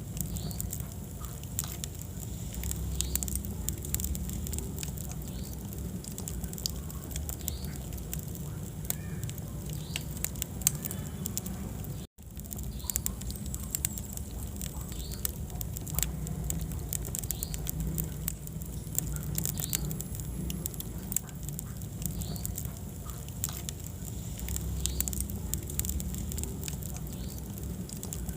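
Wood fire in a fireplace crackling, with frequent sharp pops and snaps over a low, steady rumble of the flames. The sound cuts out for an instant about twelve seconds in.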